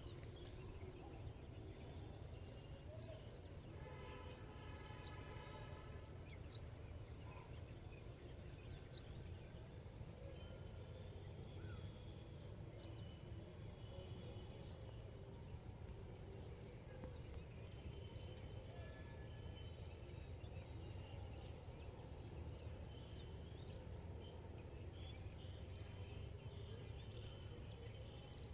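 Wild birds calling over a faint, steady low rumble of outdoor background noise. A series of short, sharply rising whistled notes repeats every second or two in the first half, with one brief call of several stacked tones among them and scattered small chirps throughout.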